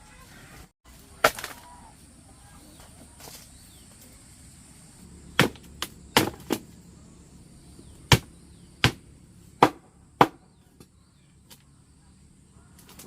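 About nine sharp blows of a tool striking wood or bamboo, one about a second in and the rest in an uneven run from about five to ten seconds in.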